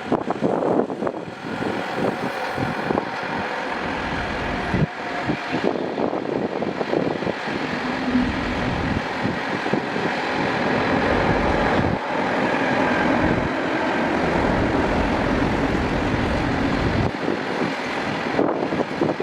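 Train passing close at speed: a steady loud rumble with irregular knocks and clatter from the wheels on the track.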